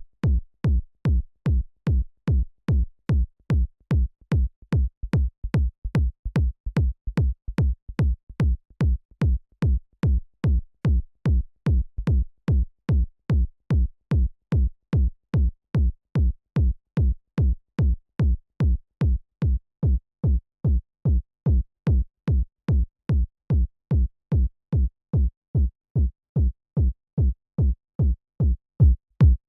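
Synthesized electronic kick drum looping on its own, about two hits a second. Each hit is a short click followed by a deep low boom. The hits grow duller, with less treble, in the second half.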